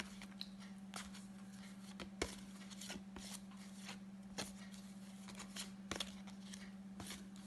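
Flashcards being flipped through one by one from a hand-held pack, each card giving a faint click or flick, irregularly about once or twice a second, over a faint steady low hum.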